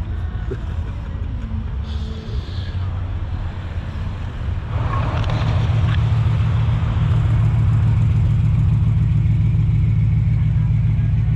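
A vehicle engine runs with a steady low rumble that gets louder about five seconds in and holds there.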